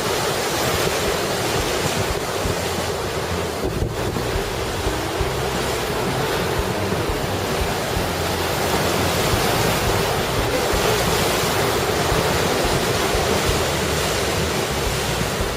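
Heavy typhoon surf breaking against the shore, a continuous rushing noise, with strong wind buffeting the microphone.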